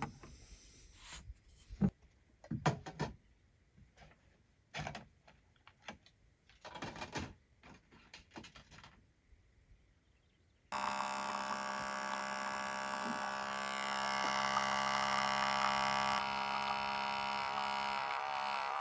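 Several scattered clicks and knocks of things being handled. About eleven seconds in, a small electric motor starts with a steady hum and keeps running.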